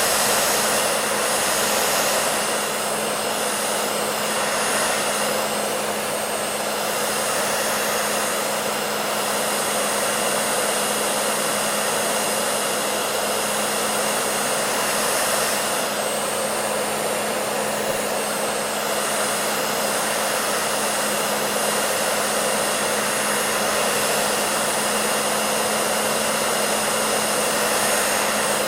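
Electric hair dryer blowing steadily: an even rush of air with a constant motor hum underneath, unchanging throughout.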